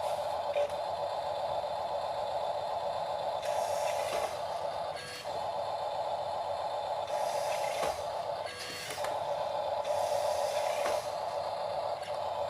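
Small electric motor and gearbox of a model RC tractor whirring steadily as it pulls a heavy load, cutting out briefly twice, about five and about eight and a half seconds in.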